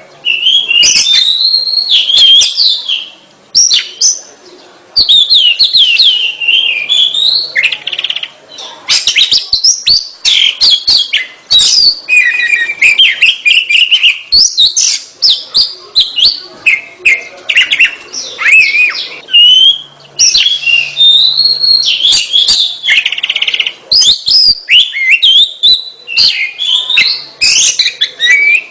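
Oriental magpie-robin (kacer) singing a loud, fast, varied song of whistles, trills and chirps, almost without pause, with a short break about four seconds in.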